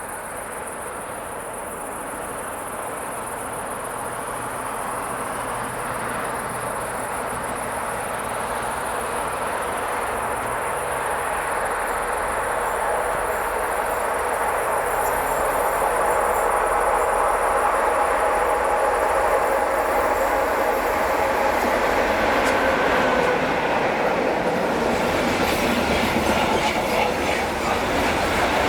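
A train approaching on the line, growing steadily louder over about fifteen seconds, then running past loud and close with rail and wheel noise. Insects chirr steadily in the background.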